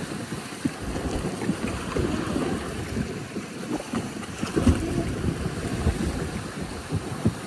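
Rushing water of a raft water slide, with heavy wind buffeting the microphone in irregular low gusts.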